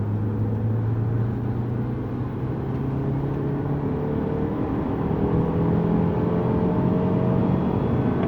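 Lexus GS200t's 2.0-litre turbocharged four-cylinder engine running under load with tyre and road noise, its note rising gradually as the car gathers speed from about three seconds in.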